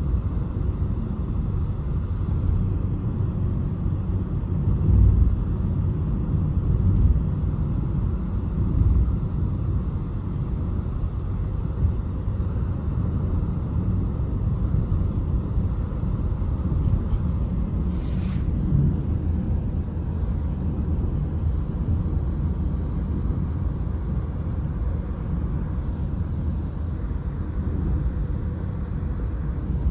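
A steady low rumble, with a short hiss about eighteen seconds in.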